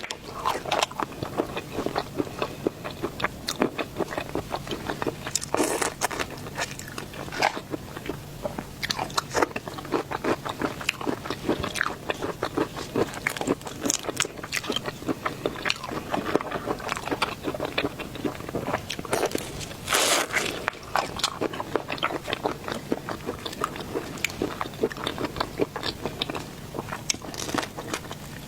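Close-miked mukbang eating sounds: a person biting and chewing seafood, with many quick crunches and clicks and a louder burst about twenty seconds in.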